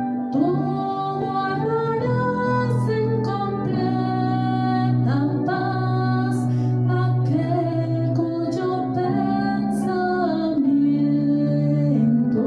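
Music: a woman singing a slow melody in long held notes over sustained chords.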